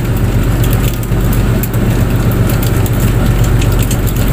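Fishing boat's engine running at a steady speed, a constant low drone, with scattered crackling clicks over it.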